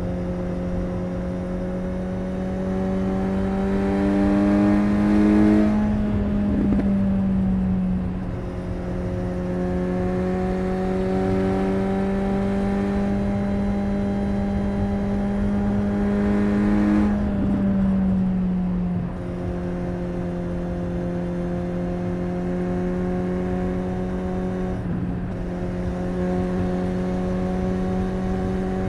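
Suzuki GSX-S 750's inline-four engine and exhaust running steadily under light throttle. The engine note climbs slowly, then drops about six seconds in and again about eighteen seconds in.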